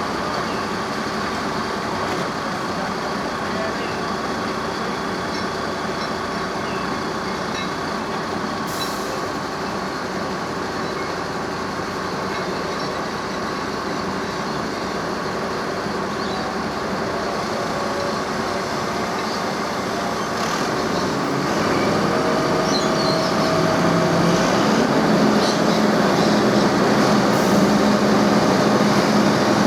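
Diesel engine of a cane train locomotive running steadily, growing louder with new engine tones about two-thirds of the way through.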